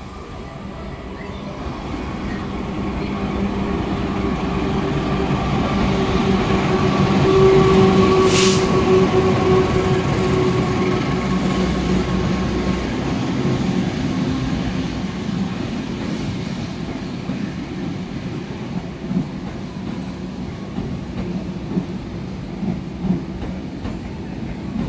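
A train running past, growing louder to a peak about eight seconds in and then slowly fading, with a steady hum. A short hiss comes near the peak, and wheels clack over rail joints in the later part.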